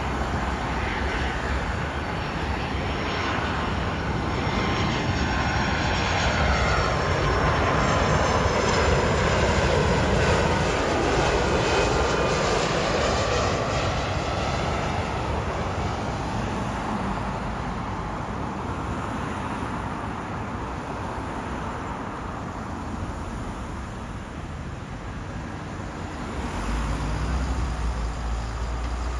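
Icelandair Boeing 757-200 jet airliner with Rolls-Royce RB211 engines passing by. Its roar builds to a peak about ten seconds in, with engine whines falling in pitch as it goes past, then fades away. A low rumble comes up near the end.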